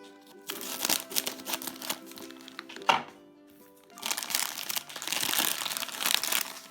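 Foil blind bag being torn open and crinkled by hand, in two stretches with a sharp crack about three seconds in, over background music.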